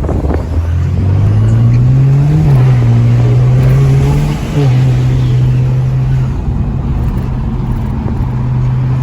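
Car engine accelerating hard, its pitch rising and dropping back at two gear shifts about two and four and a half seconds in, then running steadily at constant speed.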